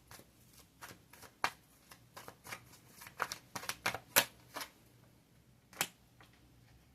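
Tarot cards being handled and shuffled: a string of irregular light flicks and snaps, the loudest about four seconds in and just before six seconds, then stopping.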